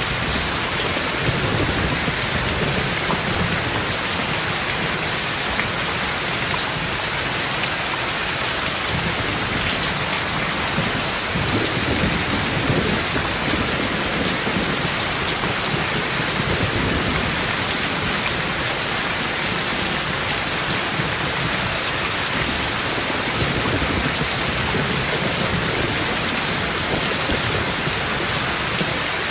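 Heavy rain falling steadily, with low rolls of thunder rising and fading a few times.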